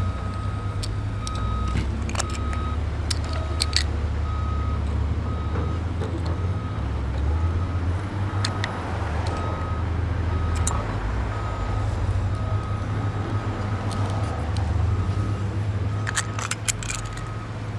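A truck engine rumbles steadily while a back-up alarm beeps about twice a second. Sharp clicks and clinks come now and then.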